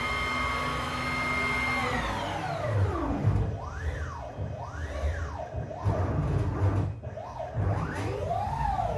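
5-axis CNC router's stepper motors whining as the axes move. The pitch holds steady for the first couple of seconds, then rises and falls in arcs as each move speeds up and slows down, over a steady whir and low rumble.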